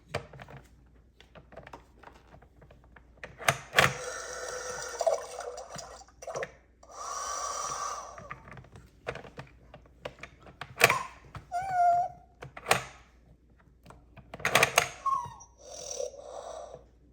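Plastic toys being handled on a toy pet-bath set: scattered knocks and clicks, with two hissing stretches about four and seven seconds in and a few short squeaky tones near the end.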